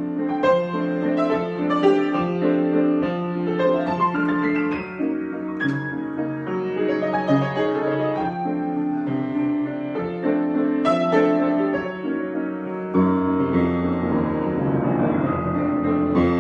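Solo piano improvisation: repeated chords struck in a steady pattern, and about thirteen seconds in the bass drops lower and the sound grows fuller and more sustained.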